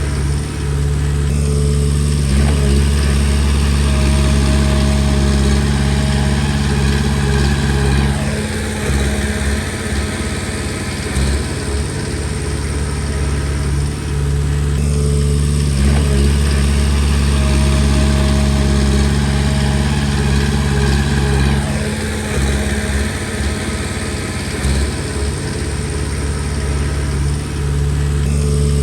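Komatsu D20P bulldozer's diesel engine running. It holds a steady, even note for several seconds, then goes ragged and uneven for several seconds, and this happens twice.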